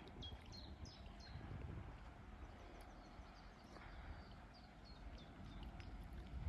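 Small birds chirping faintly in short, high, quick notes, in a run near the start and another near the end, over a low steady rumble of wind.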